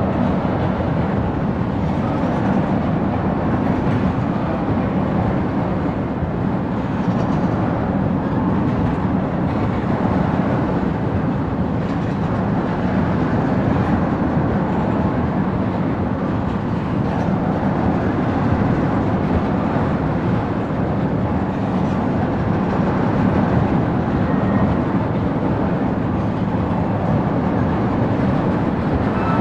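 Oil train tank cars rolling past in a steady rumble of steel wheels on the rails.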